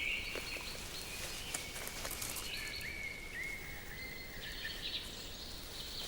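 Quiet forest ambience with faint high chirping calls, including a run of short rising notes in the middle.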